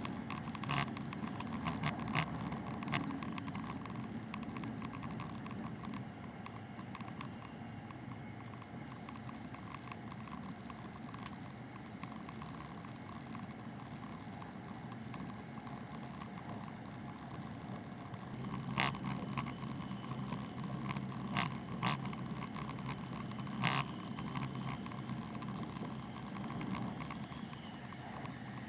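E7/W7-series Hokuriku Shinkansen train running at speed, heard inside the passenger cabin: a steady rumble of wheels and air. A few sharp clicks come near the start and a cluster of them about two-thirds of the way through.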